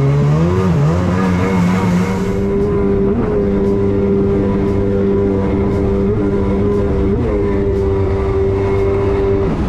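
Kawasaki 650 two-stroke twin in a jet ski running at high revs. Its note climbs over the first second, then holds steady near wide-open throttle with a few brief blips, and drops away just before the end as the throttle comes off.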